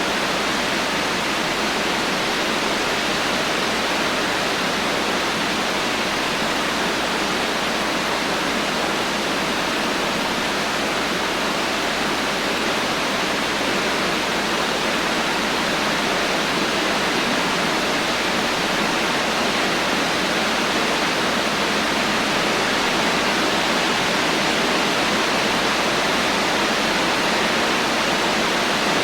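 Steady heavy rain: an even, unbroken hiss of falling water without thunder.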